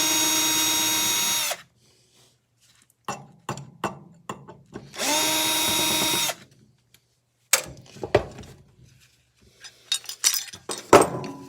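Power drill running in two short bursts of about a second and a half each, spinning up and winding down, with sharp clinks and knocks of metal parts in between and near the end.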